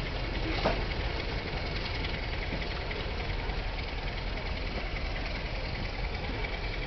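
Goods train rolling slowly past, its brake van at the rear: a steady rumble of wheels on the rails, with a single clank just under a second in.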